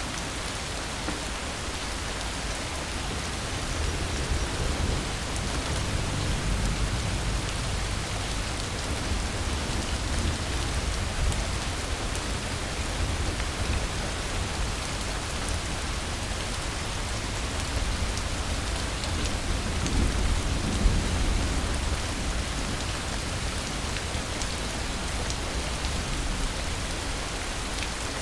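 Steady rain falling, with low rumbles of thunder swelling a few seconds in and again about two-thirds of the way through.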